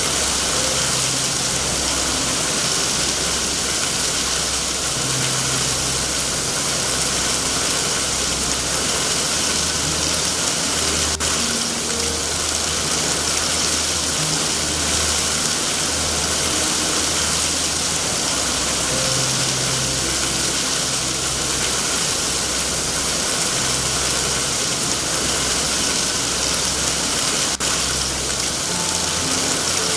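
Steady heavy rain, an even hiss with a low rumble beneath it, and a faint click twice.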